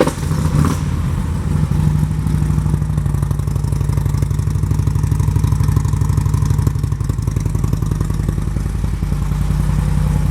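Harley-Davidson Twin Cam 96 V-twin on Vance & Hines pipes firing up and idling, with an even, pulsing beat.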